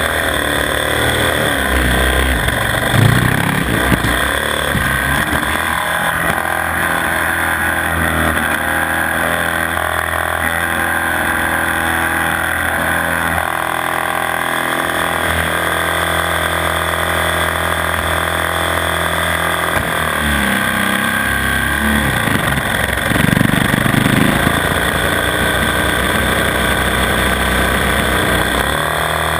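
Onboard sound of a 450 cc single-cylinder supermoto motorcycle lapping a track, the engine revving up and falling back through the corners. It settles into a steadier, lower run through the middle and picks up again in sharp bursts of revs about two-thirds of the way through and at the end.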